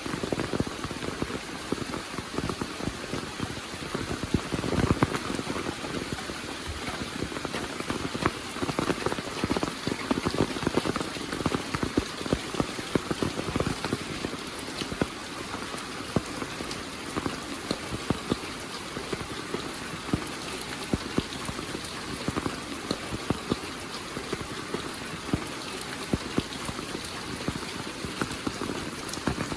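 Heavy rain falling steadily, a dense hiss full of close, crisp drop hits on surfaces.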